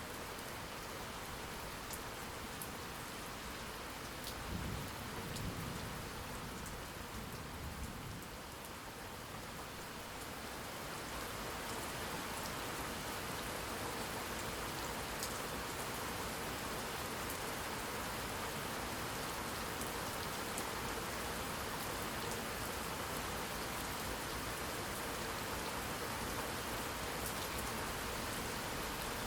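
Steady rain falling on a surface, with a low rumble of thunder about five seconds in. The rain grows a little louder about halfway through.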